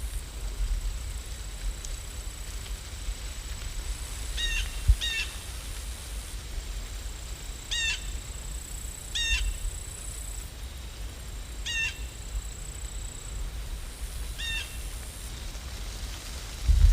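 A bird calling in short, high, hooked chirps, about seven of them, spaced irregularly one to three seconds apart, over a steady low rumble.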